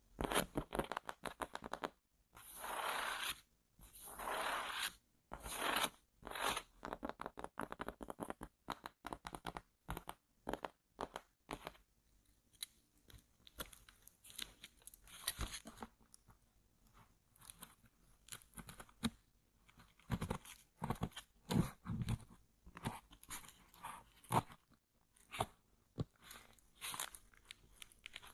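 Headphone box and packaging handled close to the microphone: a long run of crinkling, rubbing and scraping, with clusters of short taps and knocks in the second half.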